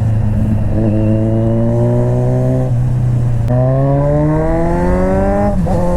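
Kawasaki Z900 inline-four with a full-system aftermarket exhaust accelerating hard, the engine pitch climbing steadily, with an upshift about halfway through and another near the end, each followed by a fresh climb.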